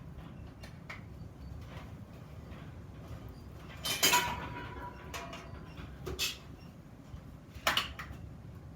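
Steel pieces clanking against each other or on a metal work surface while iron vase parts are handled: three sharp clanks, the first and loudest ringing on briefly, over a low steady workshop hum.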